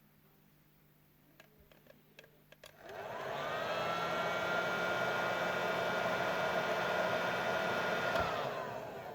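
A small electric blower motor switches on about three seconds in, its whine rising as it spins up. It runs steadily with a rushing air noise for about five seconds, then winds down with a falling whine near the end. A few light clicks come just before it starts.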